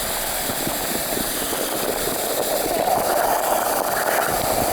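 Waterfall: heavy water falling in a steady, loud rush with a deep rumble, likened to an earthquake. It swells louder about three seconds in.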